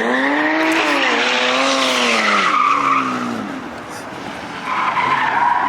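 A car skidding with its tyres squealing while the engine revs rise and fall. The squeal eases about three and a half seconds in, then builds again near the end.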